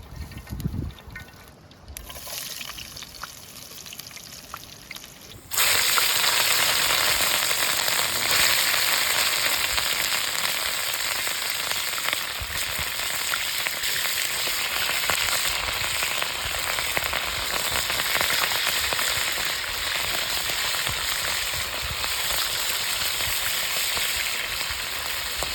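Food frying in hot oil, sizzling loudly and steadily from a sudden start about five and a half seconds in. Before that come a few low knocks and a softer hiss.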